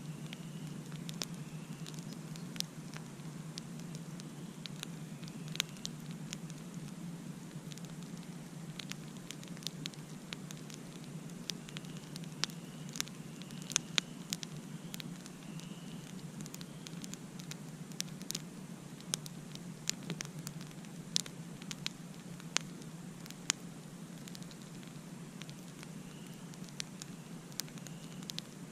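Campfire crackling: irregular sharp pops and snaps from the burning wood, over a steady low rush.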